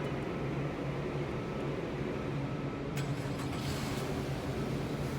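2016 Nissan Altima running with a steady low engine hum, with a brief click about three seconds in.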